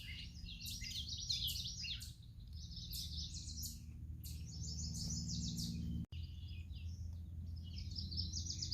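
Birds chirping and twittering in quick, overlapping runs of high notes, over a steady low hum.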